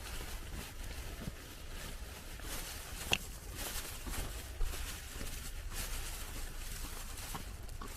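Footsteps crunching through snow at a walking pace, over a low steady rumble, with one sharper click about three seconds in.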